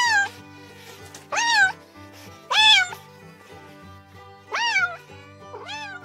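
Cat meowing five times, each meow short and rising then falling in pitch, over background music.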